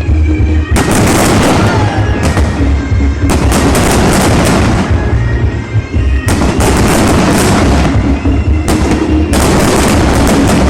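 Fireworks going off in long, dense barrages of rapid crackling bangs, three full runs of a few seconds each with brief gaps, and a fourth starting near the end.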